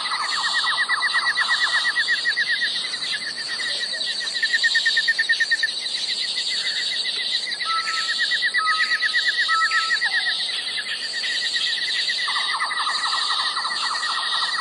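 Animal calls: several rapid pulsing trills overlapping, with three short steady piping notes about two-thirds of the way in.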